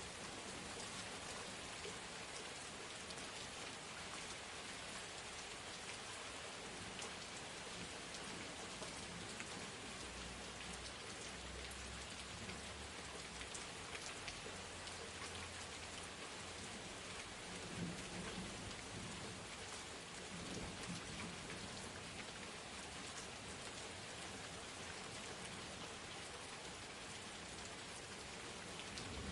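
Heavy rain falling steadily, with a low rumble of thunder partway through.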